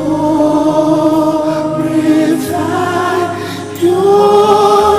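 Gospel worship music: voices singing long held notes over a steady keyboard and bass, the chord changing twice.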